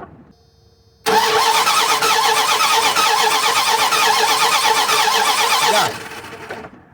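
Dodge Ram 1500's 5.2 L V8 being cranked by the starter for about five seconds, turning over in an even rhythm without catching, then stopping near the end. It cranks without starting because only a very faint spark is coming from the distributor.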